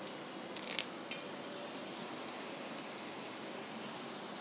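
Prawns and masala frying in a wok, a steady sizzle, with a short crackle about half a second in and a sharp click just after a second as a sprig of curry leaves goes into the hot oil.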